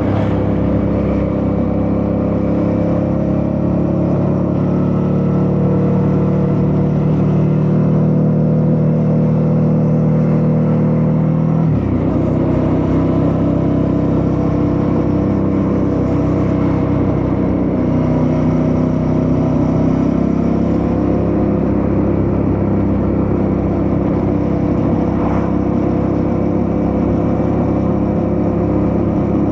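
Suzuki V-Strom 650's V-twin engine running steadily under way. About twelve seconds in there is a gear change: the engine note drops suddenly, then climbs slowly as the bike pulls again.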